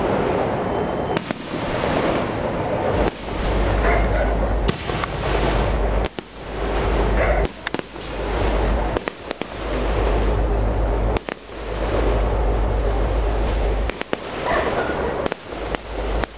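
Aerial firework shells bursting: many sharp bangs come in quick succession over a continuous noisy din. A deep low rumble comes in and drops out several times.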